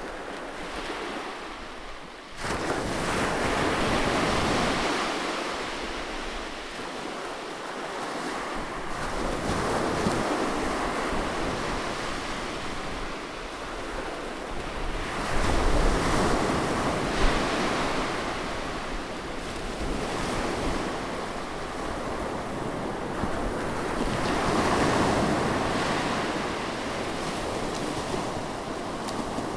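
Sea waves washing onto a beach, surging louder every several seconds and easing back between. A low rumble of wind on the microphone comes in around the middle.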